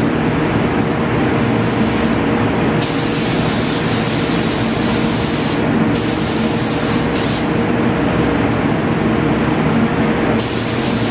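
Paint spray gun hissing in bursts: one long pass of about three seconds, a couple of short blips, then another pass starting near the end. A steady hum runs underneath.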